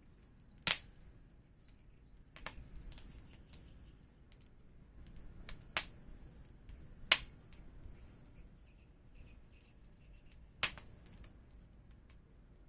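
Wood fire crackling: several sharp pops a second or more apart over a faint hiss of burning, the loudest about seven seconds in.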